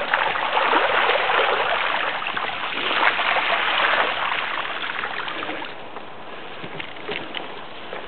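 Mountain bike wheels pushing through deep standing swamp water, a continuous splashing and sloshing that eases off about six seconds in.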